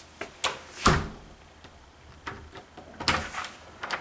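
A door being shut, with its newly installed Kwikset lever lockset's latch clicking into the strike plate, followed by more latch and handle clicks as it is worked. The loudest is a thump about a second in, with another cluster of clicks about three seconds in; the latch catches and operates smoothly.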